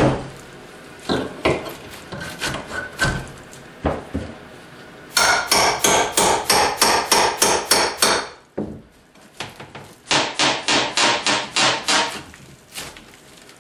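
Hammer blows on an old pressed-wood shelf being broken up: a few scattered knocks, then two fast runs of strikes at about five a second, starting about five and ten seconds in.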